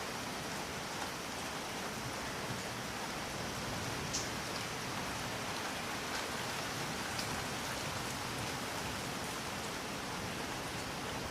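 Steady rain falling, an even hiss with a few sharper drop ticks, one louder than the rest about four seconds in.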